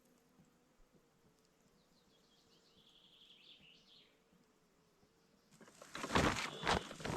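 A small bird twittering faintly a couple of seconds in. From about five and a half seconds, loud irregular rustling and crunching.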